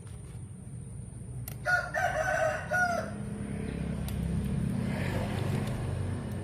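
A rooster crows once, about a second and a half in, for a little over a second. A low, steady rumble follows.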